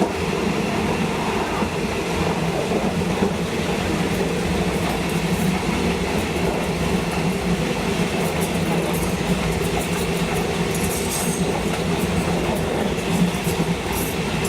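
State Railway of Thailand train running along the line: a steady rumble of wheels on rail with a humming drone. Later there are scattered clicks, and a brief high wheel squeal comes about eleven seconds in.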